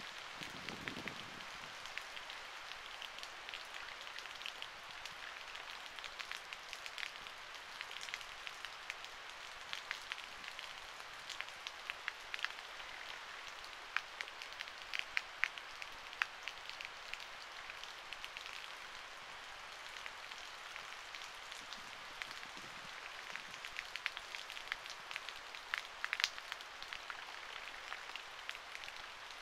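Steady rain hiss with many sharp ticks of drops landing close to the microphone, the ticks thicker around the middle and again near the end. A brief low rumble comes about a second in.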